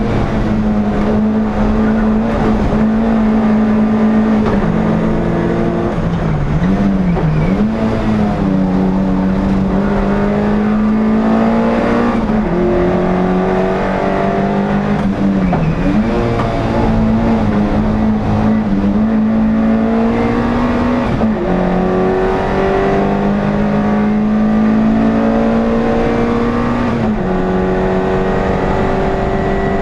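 NSU TT race car's air-cooled four-cylinder engine, heard from inside the car, running hard under racing load. The pitch holds or climbs slowly, then drops sharply at each gear change, about eight times, with a quick up-and-down blip at a couple of downshifts.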